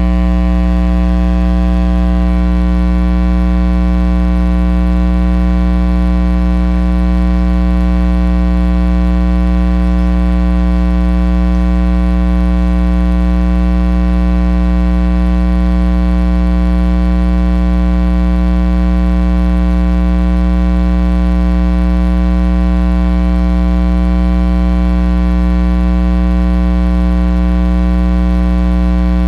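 Loud, steady electrical mains hum with a stack of buzzing overtones, unchanging throughout.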